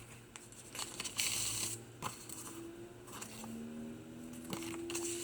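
Paper pages of a handmade journal rustling as a page is turned, with one louder swish about a second in and a few small crinkles and taps after it.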